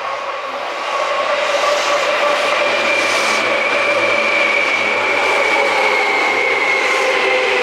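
Seibu 2000 series electric train running close by, getting louder, then holding, with a rumble and high whines that slowly fall in pitch as it slows.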